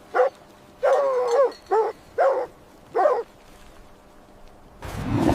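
A canine barking in short, arching barks, about six of them, with one longer yelping whine about a second in. Near the end a low rushing noise like a gust of wind sets in.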